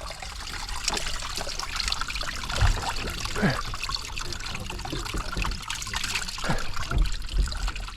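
Water trickling and dribbling steadily.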